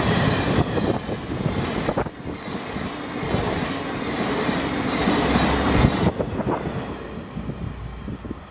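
Twilight Express sleeper train passing close by, its wheels clattering over the rail joints. The sound drops off about six seconds in as the train goes by.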